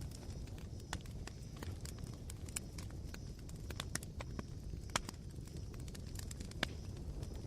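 Campfire coals crackling: irregular small pops and ticks over a low steady rumble, with two louder pops in the second half.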